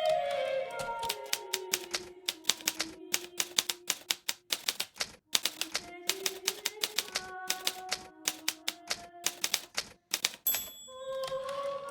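Hermes Baby portable typewriter being typed on in quick runs of sharp key clacks, with short pauses about five and about ten seconds in. Faint sustained gliding tones sound underneath.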